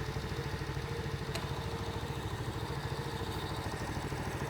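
Bullit Heritage 125cc monkey bike's small fuel-injected single-cylinder engine idling steadily with an even, rapid putter.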